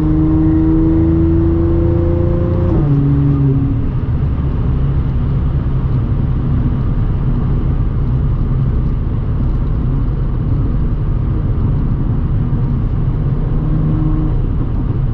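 Supercharged 3.0-litre V6 of an Audi S4 B8.5 with AWE exhaust and test pipes, pulling with a rising pitch for about three seconds. Then a gear change drops the pitch sharply, and the engine runs on steadily at cruise under an even rush of road noise.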